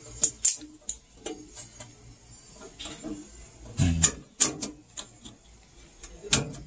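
Irregular clicks, taps and small knocks of hands and tools working on the washer's lid-switch wiring, with a cluster of louder knocks a little past halfway and another sharp one near the end.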